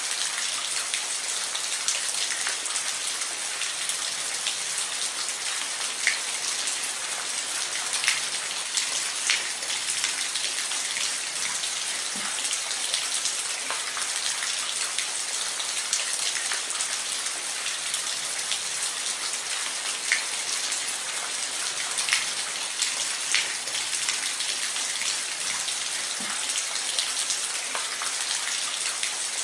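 Steady rain falling on a roof, an even hiss with individual drops ticking sharply here and there.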